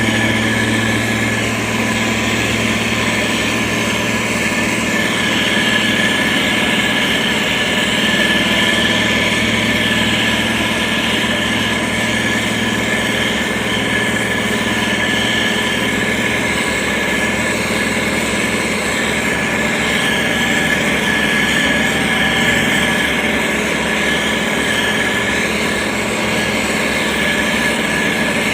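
SANY STG190C-8S motor grader's diesel engine running steadily, with a steady high whine over the low engine note.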